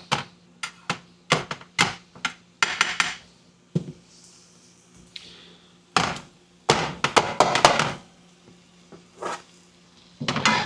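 Spatula scraping and knocking against a pan while stirring vegetables: irregular clusters of sharp clacks and scrapes with short pauses between them.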